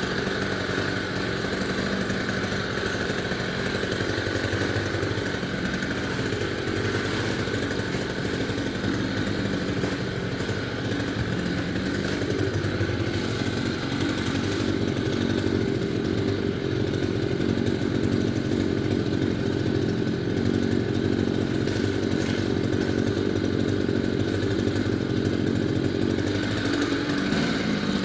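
Chainsaw engine running steadily, getting somewhat louder about halfway through.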